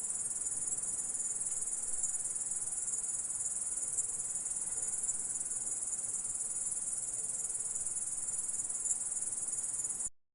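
Grasshopper stridulating: a continuous, high-pitched buzzing trill that cuts off suddenly near the end.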